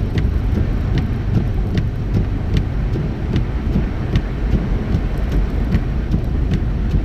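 Car driving on a wet highway, heard inside the cabin: a steady low rumble of road and tyre noise with a wet hiss, and a faint regular click about every 0.8 seconds.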